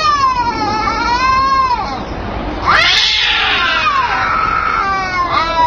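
Domestic cats caterwauling in a fight: long, drawn-out wavering yowls. A harsher, raspier yowl falls in pitch about three seconds in, and a fresh yowl starts near the end.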